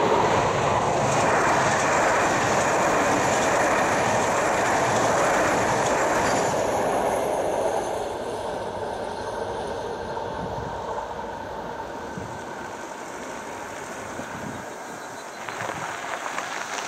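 Sm3 Pendolino electric train passing at speed: a loud rushing that holds for about seven seconds and then fades away. Near the end a car's tyres crunch on gravel as it comes closer.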